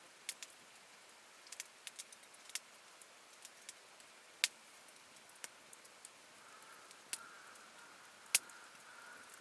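Wood campfire crackling: scattered sharp pops and snaps at irregular intervals, the loudest near the end.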